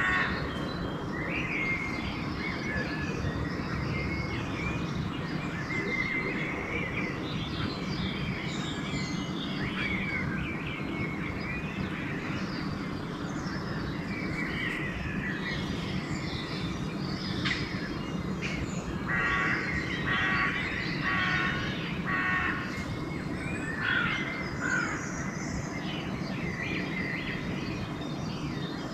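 Dawn chorus of songbirds chirping and singing all through, with crows cawing about four times in a row past the middle, over a steady low background rumble.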